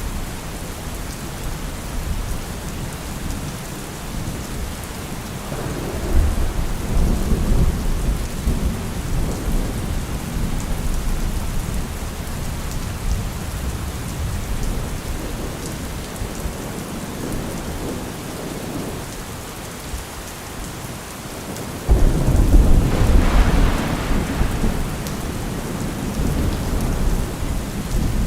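Heavy rain falling steadily, with two deep rumbles rising over it: one about six seconds in, and a louder one that starts suddenly a little past twenty seconds in and dies away over several seconds.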